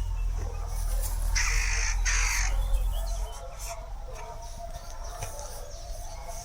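A crow cawing twice, two harsh calls in quick succession, over a low rumble that drops away about three seconds in.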